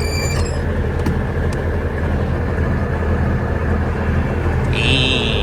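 Peterbilt 359's big cam Cummins diesel engine idling steadily with a low drone. There is a brief high click at the start and a short hiss near the end.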